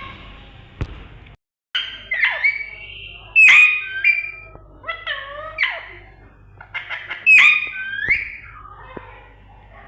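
Pet parrot squawking and whistling: a string of sharp, short calls that slide up and down in pitch, the loudest about three and a half and seven and a half seconds in.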